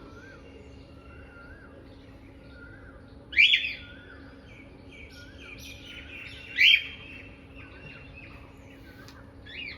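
Birds chirping: a run of small twittering chirps, broken by two loud, sharp rising calls about a third and two thirds of the way in and a fainter one near the end, over a steady low hum.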